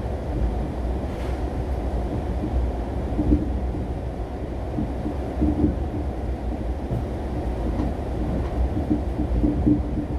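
Korean Mugunghwa-ho passenger train running between stations, heard from inside the carriage: a steady low rumble of the wheels on the rails, with short faint knocks and tones repeating through it.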